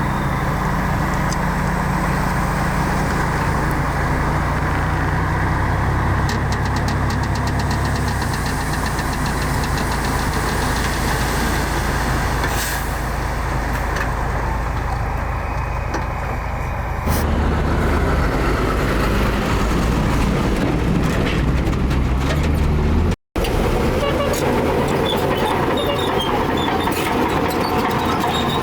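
Diesel engines of heavy earthmoving machinery running steadily, with scattered clicks and clanks on top. The sound changes abruptly about seventeen seconds in and drops out for a moment about six seconds later.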